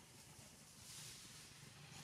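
Near silence: faint background hiss and low hum, with a slight swell of hiss about halfway through.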